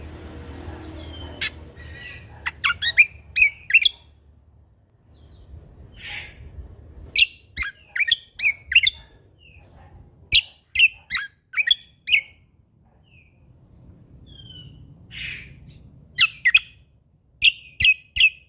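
Cucak kombo (kecial kombok) songbird singing in bursts of sharp, rapid chirping notes that sweep quickly up and down, with short pauses between the bursts.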